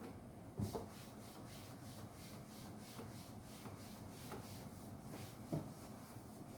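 A cloth or duster rubbing a surface in quick back-and-forth strokes, about three a second, with a soft knock about half a second in and another near the end.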